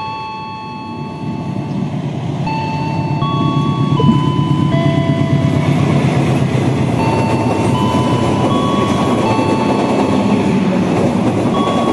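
Passenger train running past on the tracks, its rumble and wheel clatter building over the first few seconds and then holding steady. A simple melody of held single notes plays over it.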